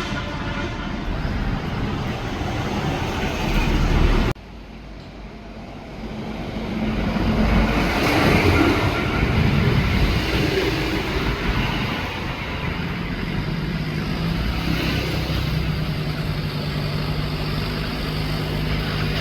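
Boat engine running with rushing noise. It drops off sharply about four seconds in and builds back up, and a steady low engine hum comes through in the second half.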